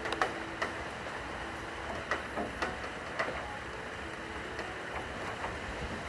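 Steady rain with heavy drops ticking at irregular moments, about a dozen times, and a faint low cello note lingering early on and again near the end.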